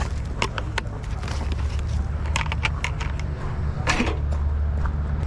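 Forklift engine running steadily while a load is being offloaded, with scattered metal clicks and clanks.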